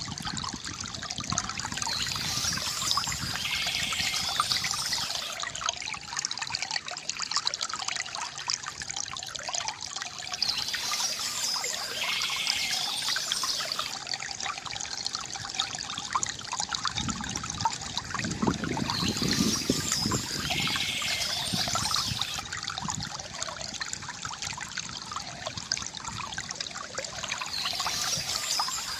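Water from a bamboo fountain trickling and splashing without a break, full of small drips and gurgles. A brighter, hissier stretch comes back about every eight or nine seconds, and there is a deeper gurgle about two-thirds of the way in.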